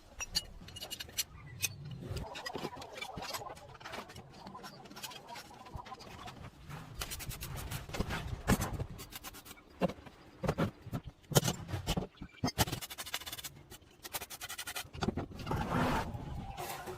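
Hand work on a hard object: irregular scraping, clicks and knocks, with a couple of short runs of rapid, even clicking.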